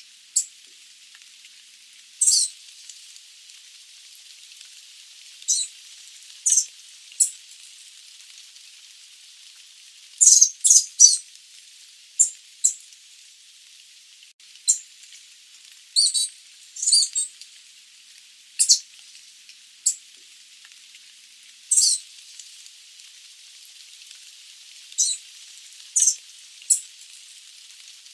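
Sooty babbler (Stachyris herberti) giving short, high call notes at irregular intervals, some in quick pairs or runs of three, over a steady high hiss.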